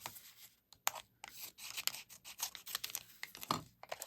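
Small plastic wrapper being torn open and crinkled by hand, in a run of irregular sharp crackles.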